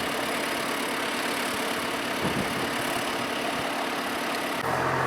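Tractor engine idling steadily. Near the end the sound changes abruptly to a louder, deeper engine hum.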